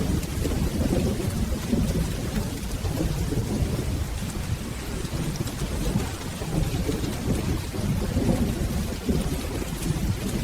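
Steady rain hissing, under a continuous low rumble of rolling thunder that swells and eases over the seconds.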